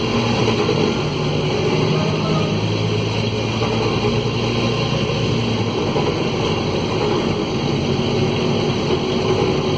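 Mercedes-Benz OM904LA four-cylinder diesel of a midibus running under way, with the noise of a broken exhaust. The engine's steady note changes about six seconds in.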